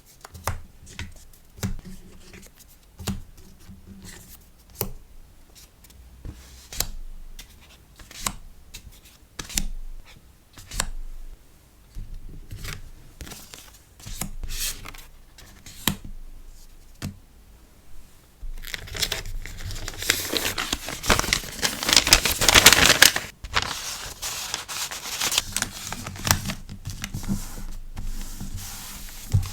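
Hand-packing of a sticker order: light taps and brief rustles of paper and plastic packaging, then, about two-thirds of the way in, a loud, dense crinkling and tearing lasting several seconds, easing into softer rustling.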